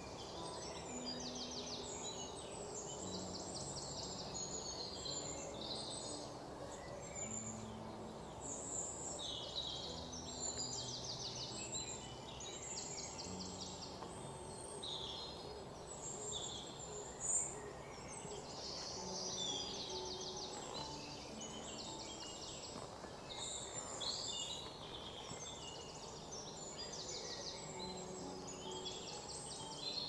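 Small birds chirping and trilling continuously over a steady background hiss, with one brief sharp click just past halfway.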